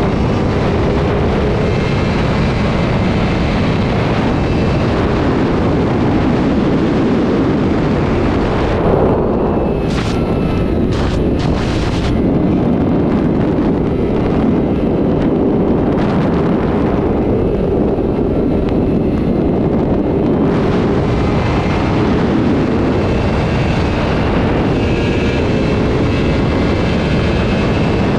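Superbike engines running at speed on the highway, heard under heavy wind rush on the microphone. Around ten to twelve seconds in come a few sharp cracks, and the high hiss thins out for about ten seconds before returning.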